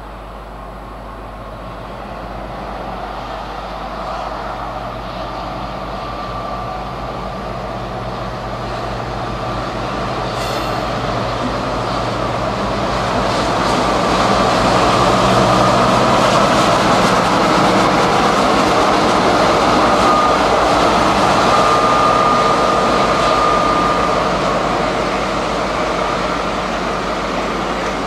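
A train moving through the station, growing louder over about fifteen seconds and then easing slightly, with short high wheel squeals near the middle.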